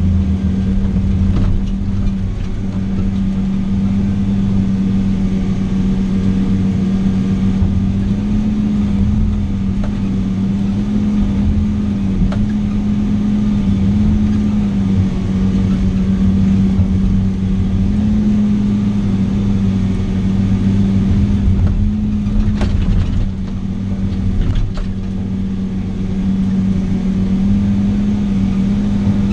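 Vehicle engine running with a steady low hum that shifts slightly in pitch now and then, with a couple of brief clicks near the end.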